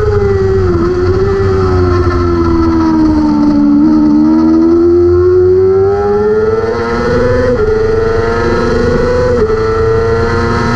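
600cc superbike engine at racing speed, heard from on board. Its pitch falls for about four seconds as the bike slows for a corner, then climbs under acceleration, with brief dips at upshifts about seven and a half and nine and a half seconds in.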